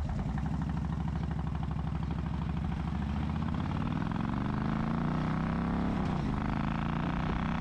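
A motorcycle engine running at a fast idle with an even pulsing beat, its pitch creeping up over a few seconds and dipping briefly about six seconds in.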